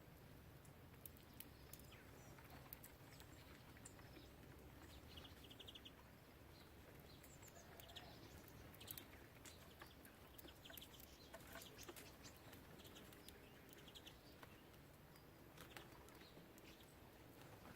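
Small garden birds at a feeder, heard faintly: scattered short chirps and a few quick runs of twittering notes, with sharp clicks in between, over a low steady background rumble.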